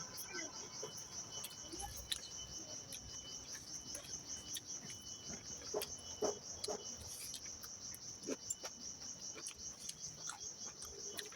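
Crickets chirping in a steady, high, pulsing trill, with scattered short clicks and smacks of someone eating.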